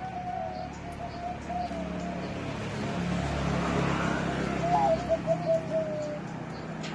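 Zebra dove singing its rolling, trilled coo, a contest bird of the middle-pitch voice class: one phrase at the start and a second, louder one from about five seconds in that opens on a higher note.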